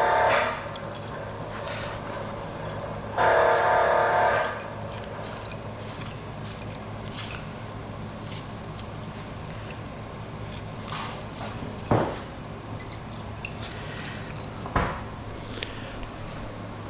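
Two short bursts of a power tool working metal, one at the start and one about three seconds in. Then scattered metal clinks and knocks of scrap being handled, over a steady low hum.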